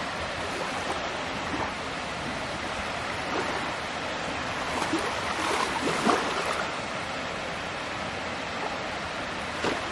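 Steady road and wind noise from a car driving, with a few short louder rustles and knocks around the middle.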